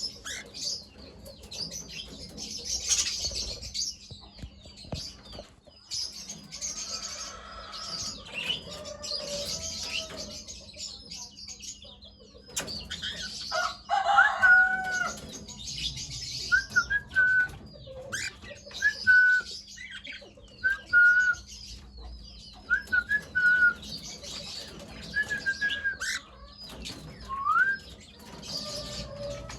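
Cockatiels chirping and chattering. About halfway through, short whistled notes begin to repeat at one pitch, and one whistle rises near the end.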